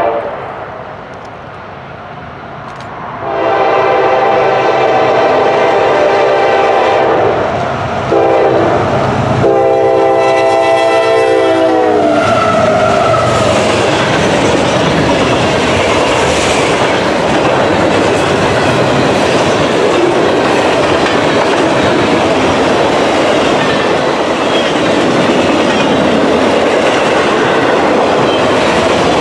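Freight locomotive air horn sounding a long blast, a short one and a final long blast whose chord drops in pitch as the locomotives pass about twelve seconds in. Then the steady rumble and clickety-clack of the freight cars' wheels rolling past on the rails.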